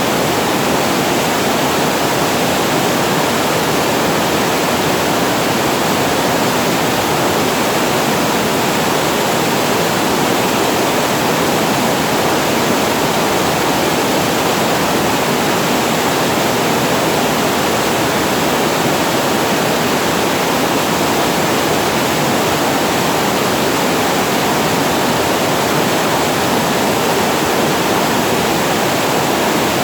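Water pouring over a reservoir weir as a small waterfall: a steady, unbroken rush.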